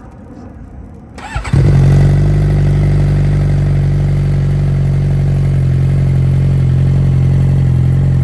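Suzuki GSX-R600 inline-four cranked on the starter about a second in, catching almost at once and settling into a steady warm idle through an M4 GP slip-on muffler, with the catalytic converter still in the stock mid-pipe.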